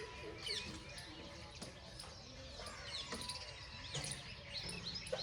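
Birds chirping, many short repeated calls over faint outdoor background noise.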